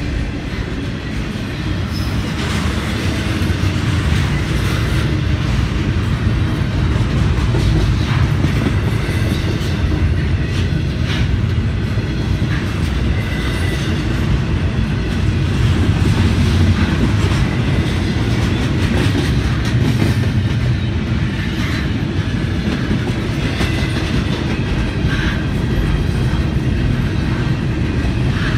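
Double-stack container freight train rolling past: a steady, loud rumble of steel wheels on rail, with irregular clicks of the wheels over the track.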